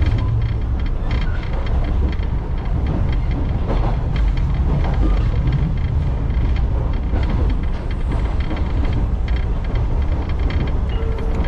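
Echizen Railway electric train running at speed, heard from inside the passenger car: a steady low rumble of wheels on rail with a light clatter.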